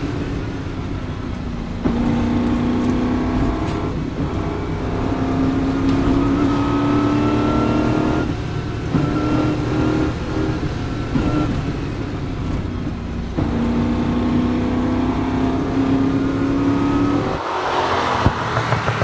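TVR Griffith 400's V8 engine driven hard, heard from inside the cabin: the pitch climbs through each gear and drops back at each shift, several times over. In the last second or so it is heard from outside as the car goes by.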